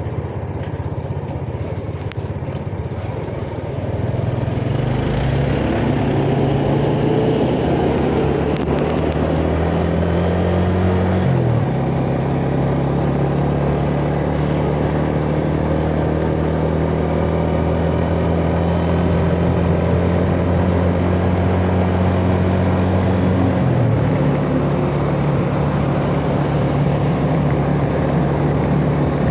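Yamaha Jupiter Z 'Burhan' single-cylinder four-stroke engine under way: it pulls up in pitch over several seconds, drops with an upshift about eleven seconds in, holds a steady pitch, and drops again with a second upshift about five seconds before the end.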